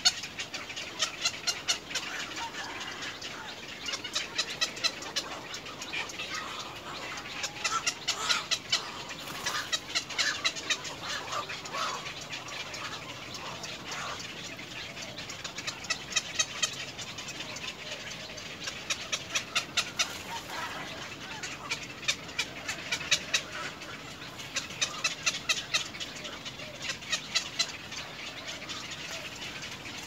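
Bird calls: a rapid ticking chatter in bursts of about a second, coming again and again, over steady outdoor background noise.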